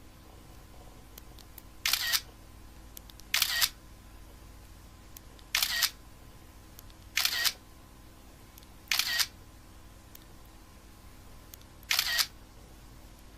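Six sharp double clicks, each a quick click-clack, coming irregularly a second and a half to three seconds apart over a low steady hum.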